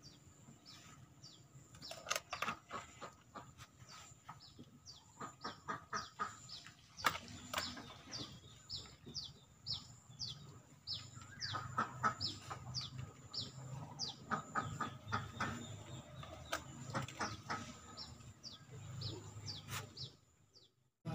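A bird calling over and over in short, falling chirps, about two a second, with scattered clicks and rustles from hands working in the branches of a potted bonsai. A faint steady high tone runs underneath.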